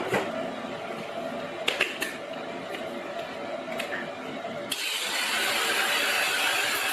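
A few clicks and knocks of handling, then about two-thirds of the way in a cordless mini angle grinder starts up and grinds steadily, a hissing, high grinding noise as it takes old nickel strip residue off the ends of lithium-ion 18650 cells.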